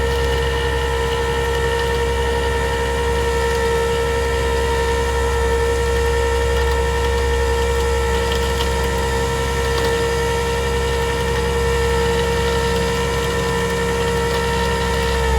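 Rollback tow truck's hydraulic pump whining steadily under load over the running engine while the bed controls are worked. The whine drops in pitch at the very end as the control is released.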